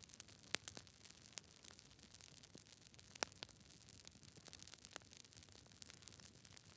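Campfire crackling: irregular sharp pops and snaps of burning wood over a soft hiss, the loudest pops about half a second and three seconds in.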